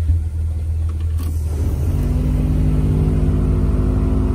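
Holden VL Commodore's engine idling warm, heard from inside the cabin; about two seconds in, a second steady hum with several tones joins it and the running becomes slightly louder.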